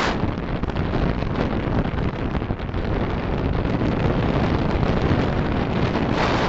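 Wind and road noise picked up by a car's dashcam microphone while driving: a steady low rumble, with a short hissing swell at the start and another near the end.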